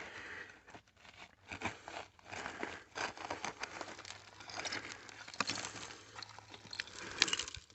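Digging by hand in loose dirt and debris to free a buried old bottle: irregular scraping and crumbling of soil with small clicks and ticks throughout.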